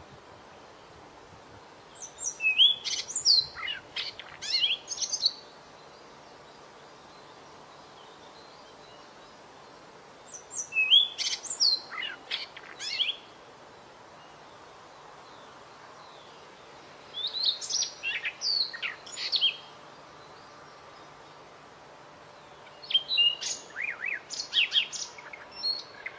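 White-rumped shama singing: four bursts of rapid whistled and chattering notes, each about three seconds long, with pauses of several seconds between them.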